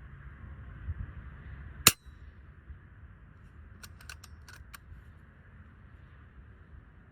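FX Impact M4 .22 PCP air rifle firing a heavy slug: one sharp shot about two seconds in. About two seconds later come five quick light clicks.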